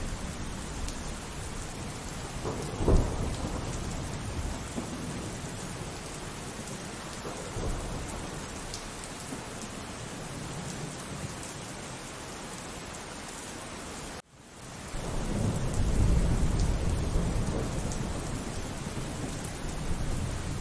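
Thunderstorm: steady rain falling, with a sharp thunderclap about three seconds in and a smaller one later. Past the middle the sound drops out for a moment, then a long, heavy roll of thunder swells and fades.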